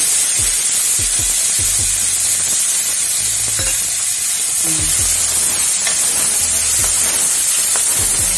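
Wet onion-tomato masala paste sizzling loudly in hot oil in a kadhai, a steady hiss of frying, with a steel ladle repeatedly scraping and tapping the pan as it is stirred.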